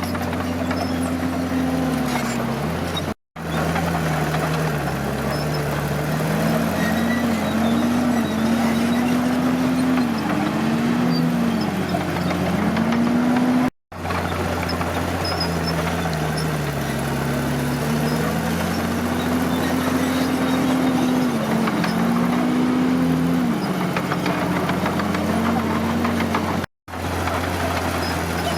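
Bulldozer's diesel engine running under working load, its pitch rising and falling again and again as it pushes and eases off. The sound cuts out briefly three times.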